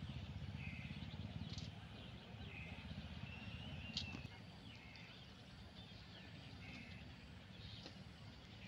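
Birds calling in short chirps, one every second or so, over a low steady rumble of background noise. A single sharp click about four seconds in.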